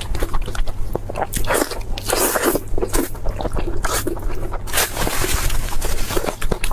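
Close-miked eating: crunchy food bitten and chewed, in irregular crisp crunches one after another.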